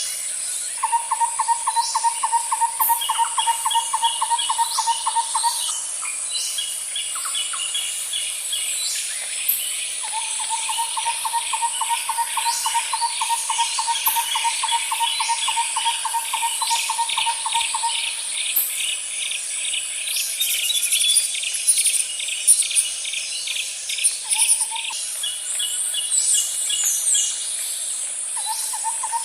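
Nature ambience: several birds chirping and calling over a steady high insect drone. A long, even, rapidly pulsed trill sounds twice, once for about five seconds near the start and once for about eight seconds in the middle.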